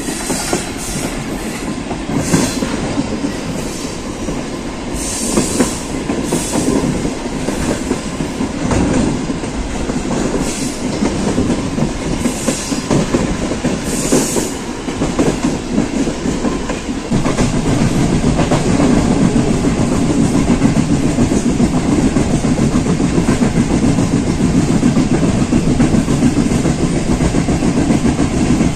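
Passenger train running along the track, heard from on board: a steady rumble with wheels clattering on the rails. The running noise grows louder a little over halfway through.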